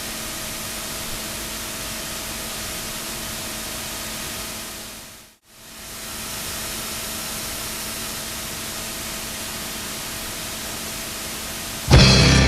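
Steady even hiss that fades out to silence about five seconds in and fades back up. Music with guitar and drums starts near the end.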